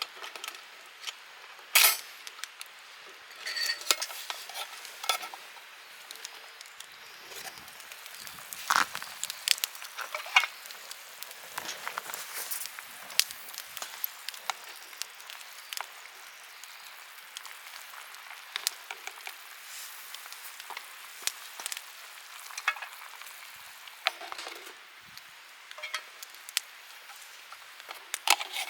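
Food frying and sizzling in a pan, with many sharp clicks and scrapes of stirring scattered throughout.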